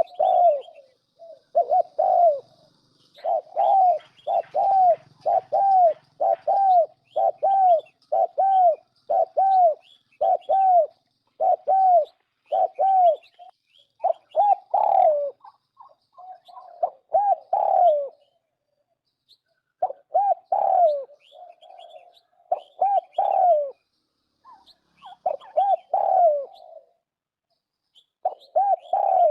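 Turtle dove cooing over and over: short, down-slurred coos about one to two a second, in runs broken by brief pauses, with faint higher chirps behind them.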